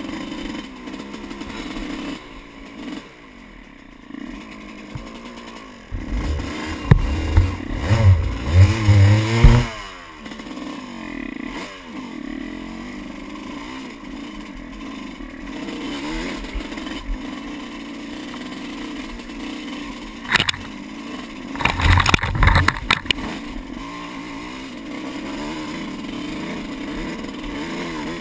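Yamaha YZ125 125 cc two-stroke single-cylinder dirt bike engine running under riding load, its pitch rising and falling as the throttle is opened and closed. Twice, loud low rumbling bursts sound over the engine: once for several seconds just after the start and again for about two seconds past the middle.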